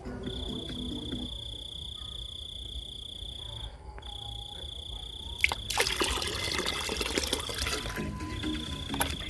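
Water pouring for about two seconds, starting about six seconds in, with a few clicks, over a steady high-pitched tone that breaks off twice.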